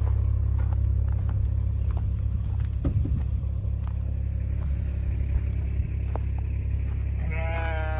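A vehicle engine running steadily with a low rumble, with a few light knocks. Near the end comes a short wavering bleat, like a sheep's.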